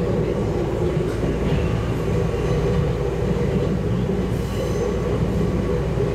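Train running along the track, heard from inside the front cab: a steady rumble of wheels on rail.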